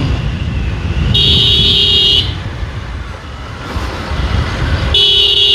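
A vehicle horn blown twice, each honk about a second long, over the steady low rumble of engines in a traffic jam. The second honk starts near the end.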